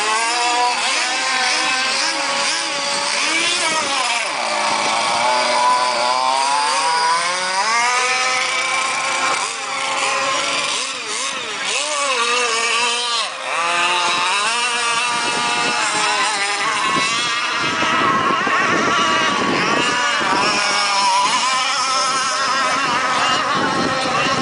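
Several gas-powered radio-controlled rigger race boats running at high revs, their small two-stroke engines overlapping, with pitches that rise and fall as the boats speed up, slow and pass.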